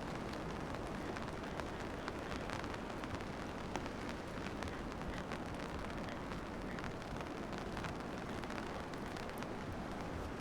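Steady rain falling, with many small drop ticks close by over a constant low rumble.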